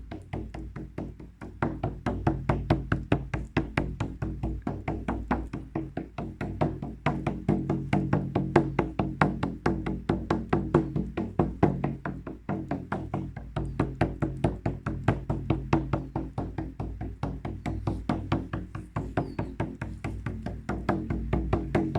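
Ritual hand drum beaten in a steady, fast, even rhythm of about four to five strokes a second, with a low ringing hum under the beats.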